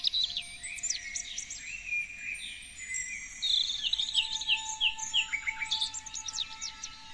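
Several songbirds chirping and singing over one another in quick, sweeping calls, with a run of about six quick falling notes in the middle. Faint steady held tones sit underneath.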